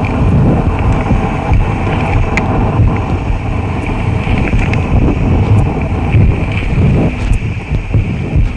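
Harsh noise music: a loud, dense low rumble that churns unevenly, with scattered crackles and clicks over it and a thin steady hiss higher up.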